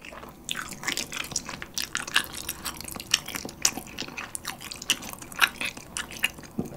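Close-miked chewing of a mouthful of chewy, sauce-coated instant bibim noodles: wet, sticky mouth clicks and smacks, a few a second.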